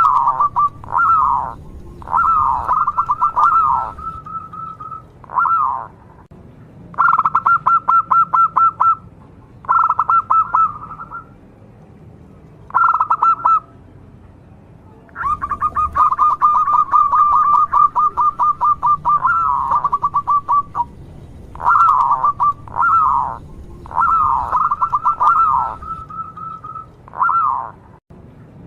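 Local zebra dove (perkutut) cooing in repeated bouts of rapid staccato notes, with short pauses between phrases; the longest phrase, a few seconds long, comes about halfway through.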